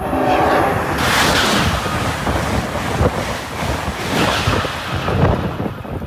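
Amtrak Acela high-speed train passing at speed: a loud rush of air and wheel noise that swells twice. It opens with a short horn sounding for about the first second.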